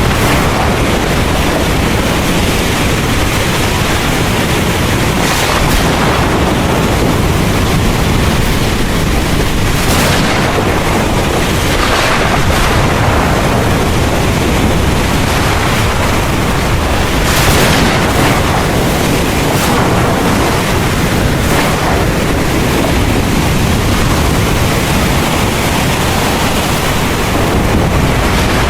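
Heavy rain pouring in a dense, steady hiss, with a deep rumble of thunder underneath. Brief louder swells of hiss break through every few seconds.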